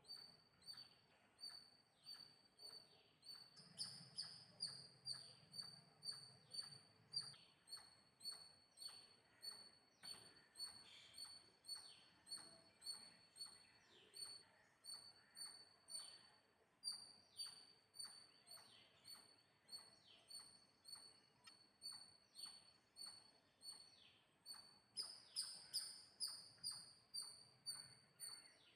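A bird chirping in a steady, even rhythm of about three short high chirps every two seconds, with louder falling whistles about four seconds in and again near the end.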